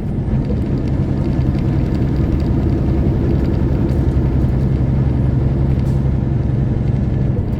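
Semi-truck diesel engine running steadily under way, with the rumble of road noise.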